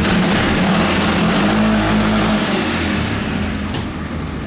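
CFMoto ATV engine running, its note shifting a little about two seconds in, with no rattle from the exhaust heat shield, which has just been re-secured with its springs.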